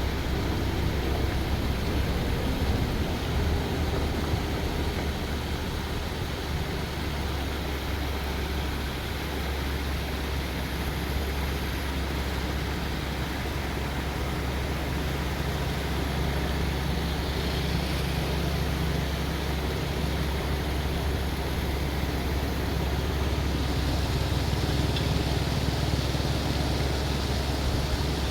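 Waterfall: water rushing down a rocky fall in a steady, unbroken roar with a strong low rumble.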